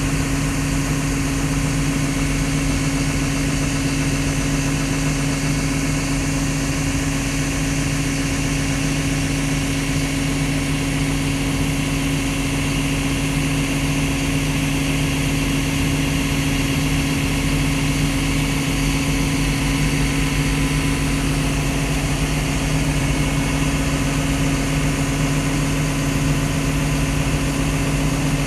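Liugong CLG922E crawler excavator's Cummins diesel engine idling steadily, one even hum with no change in engine speed.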